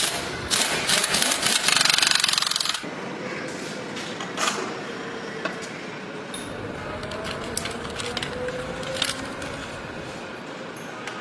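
A power tool rattling rapidly for about two seconds and then stopping, followed by scattered clicks and clinks of tools on metal over steady workshop background noise.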